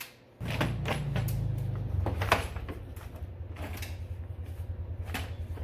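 A motor or engine starts abruptly and settles into a steady, evenly pulsing low run, with a few sharp metal knocks of tools over it.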